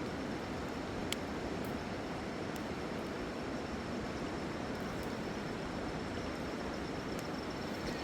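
Steady rushing of a fast river: an even, unbroken noise. A faint, high, steady tone runs over it, and a single small click comes about a second in.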